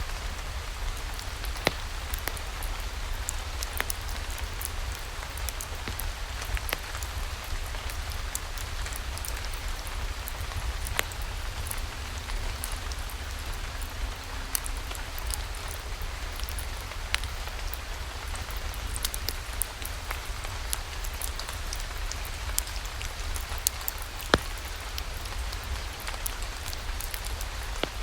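Steady rain falling, with irregular sharp pops and clicks of a crackling wood fire scattered through it and a low steady rumble underneath.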